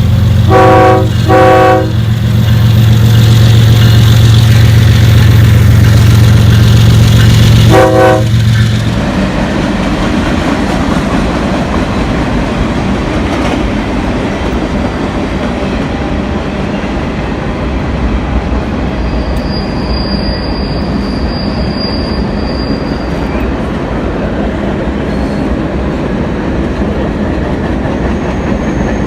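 A train passing close by. The locomotive horn sounds two short blasts, then one more about eight seconds in, over a loud low drone that drops away after about nine seconds into the steady rumble and clatter of the cars rolling past.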